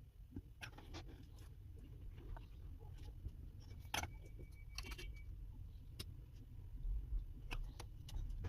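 Small clicks and taps of tools and parts being handled while working on a mobile phone, scattered and irregular, over a steady low hum. A brief faint tone sounds about four seconds in.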